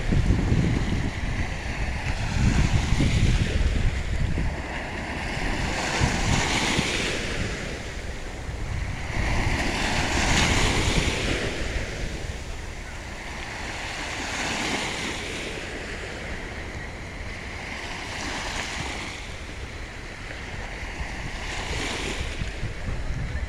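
Sea waves breaking and washing in, swelling about every four seconds, with wind rumbling on the microphone, heaviest in the first few seconds.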